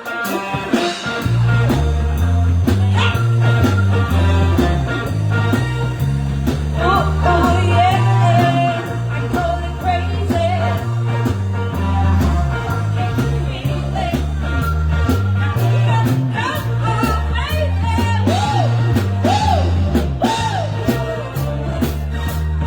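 Live band playing a song: a bass guitar line stepping between notes under drums, with singing and melodic lines that swoop up and down over it.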